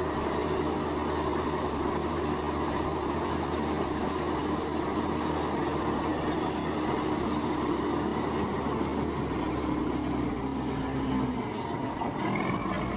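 Heavy earthmoving machinery running steadily: a diesel engine drone with a constant whine over it. The pitch shifts briefly near the end.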